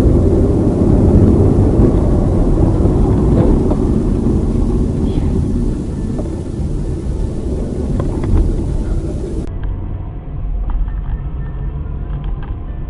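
Steady low rumble of a car driving, engine and road noise together. About three quarters of the way through it cuts abruptly to a duller, slightly quieter rumble of the same kind, with a few faint clicks.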